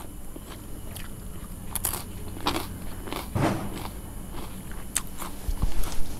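Chewing and biting on a crisp deep-fried spring roll, with irregular crackly crunches, the loudest a little past the middle and again near the end.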